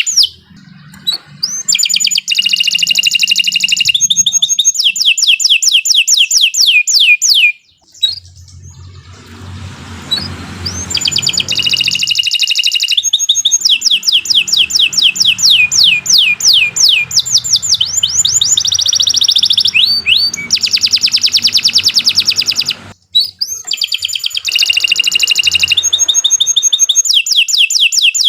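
Domestic canary singing a long song of rapid trills and fast runs of repeated high notes that sweep downward, broken by short pauses about 8 and 23 seconds in.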